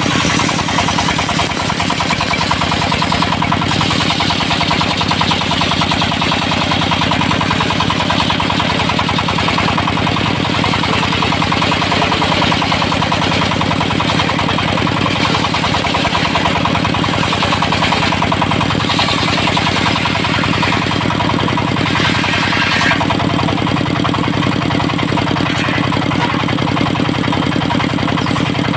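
Dongfeng diesel engine running steadily, driving a circular sawmill blade, with a higher hiss that swells and fades over it.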